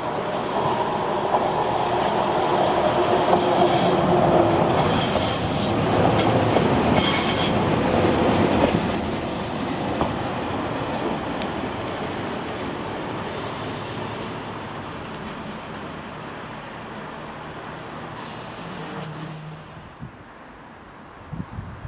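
A train rolling through the station, its steel wheels squealing on the rails in several short high-pitched squeals over a steady rumble. The rumble fades after the first half, then the sound drops away sharply near the end.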